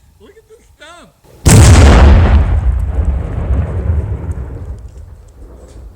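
A large binary exploding target detonating when hit by a rifle shot: one sudden, very loud blast about a second and a half in, followed by a long rumbling echo that dies away over about four seconds.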